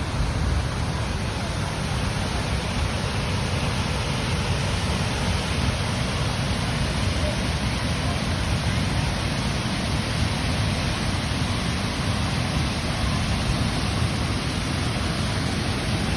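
A waterfall's falling water making a steady, unbroken rushing noise, heavy in the low end.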